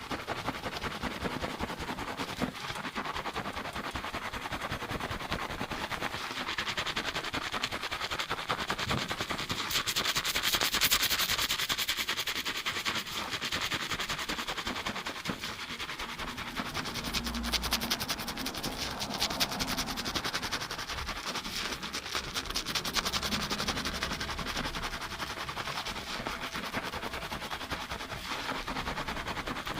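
Fast shampoo scrubbing of lathered hair: a dense, rapid crackle of foam and fingers working the scalp, close up in binaural sound, louder around ten to thirteen seconds in.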